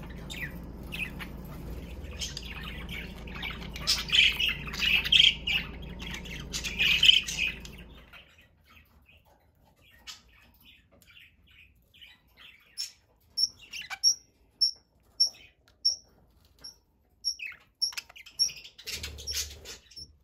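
Pet budgerigars chirping and chattering over a steady low hum that cuts off about eight seconds in. After that, sparser chirps, including a run of short, high, evenly spaced calls about two a second.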